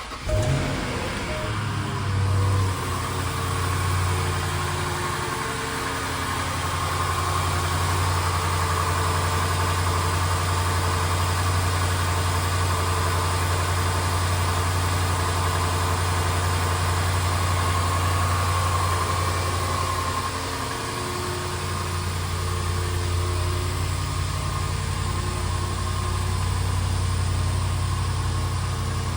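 A 2010 Range Rover's engine starting from cold. It catches right at the start, flares briefly about two seconds in, then settles into a steady cold idle.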